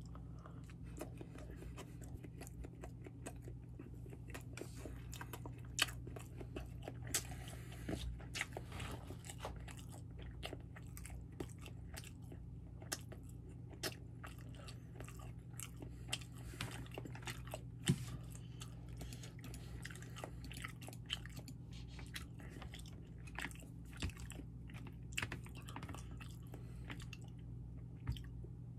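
A person chewing and eating a piece of sushi, with irregular wet mouth clicks and smacks. A steady low hum runs underneath.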